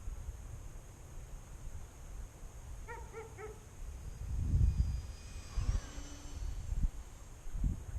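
Wind buffeting the microphone in gusts, getting louder about halfway through. A little after three seconds in come three short, quick yelps, and a faint falling whine follows later.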